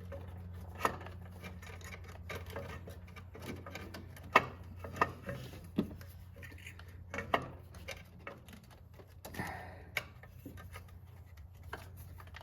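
Scattered light clicks, taps and scrapes of hands and tools working an exhaust manifold gasket into place around the header, with the sharpest click about four seconds in. A steady low hum runs behind.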